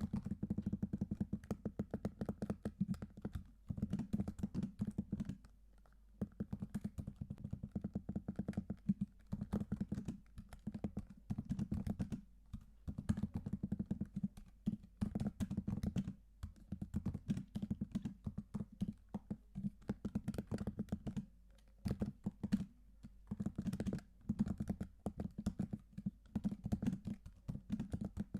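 Typing on a computer keyboard: fast runs of key clicks broken by brief pauses.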